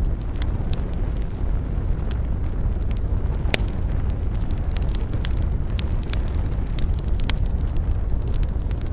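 Campfire burning: a steady low rumble of flames with scattered sharp crackles and snaps of burning wood, one louder pop about three and a half seconds in.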